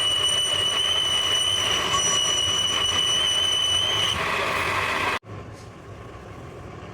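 A steady high-pitched metal squeal over loud machine noise, as from a metalworking machine at work on metal. The squeal stops about four seconds in, and the machine noise cuts off abruptly a second later.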